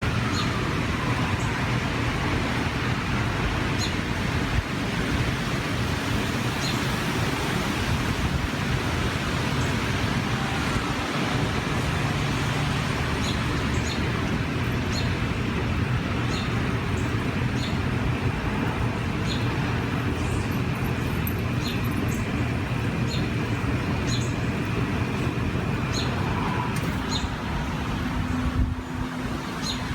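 Steady rumble of a passing train mixed with wind rushing through trees. Over it a bird repeats a short, simple chirp every second or two.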